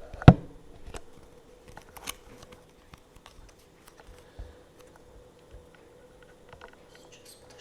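Tarot cards being handled: one sharp tap about a third of a second in, then scattered soft clicks and taps of the cards.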